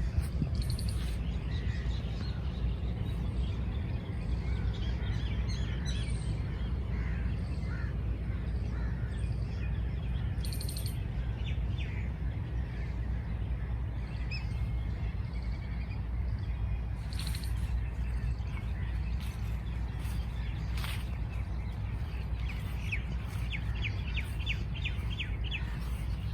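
Several birds chirping in short scattered calls, with a quick run of repeated chirps near the end, over a steady low background rumble.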